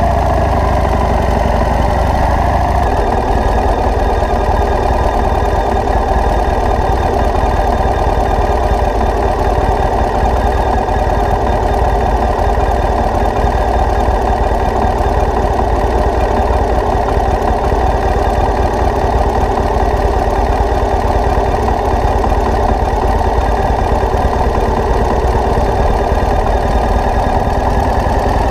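Vehicle engine running steadily, a loud even drone that does not change.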